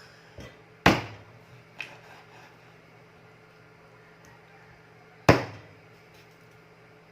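Knife chopping chicken into pieces on a cutting board: two loud, sharp chops about four seconds apart, with a few lighter knocks near the start.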